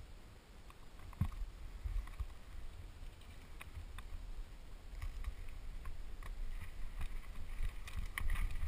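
Mountain bike descending a dirt trail: steady low wind rumble on the microphone, with scattered clicks and rattles from the bike over the bumps, a little louder near the end.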